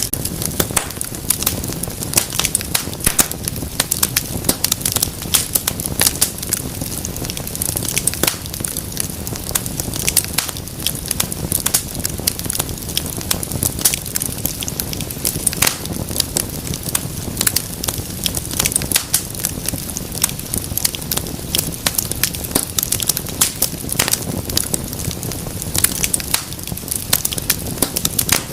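Wood fire burning steadily in a fireplace, with a constant low rumble of flames and dense, irregular crackles and pops.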